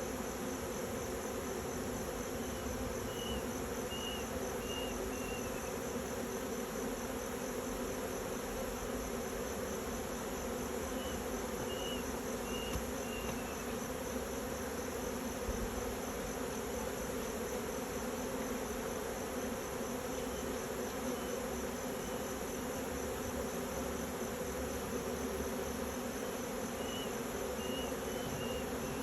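Honeybees buzzing steadily around the hives, a dense, even hum from many bees at once.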